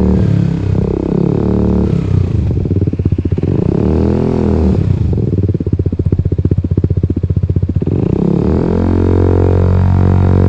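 Italjet Dragster 125 scooter's single-cylinder engine revving up and down through an Akrapovic racing slip-on muffler with its baffle removed. Its pitch swings rise and fall several times, then drop to a low, rapid pulsing about halfway through. Near the end it climbs again and holds a steady higher note.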